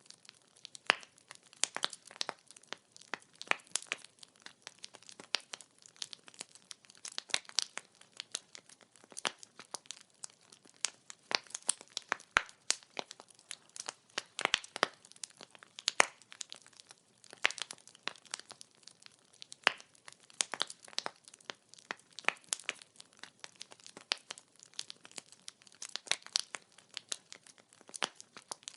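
Wood fire burning, the logs crackling and popping in a dense, irregular stream of sharp snaps over a soft hiss.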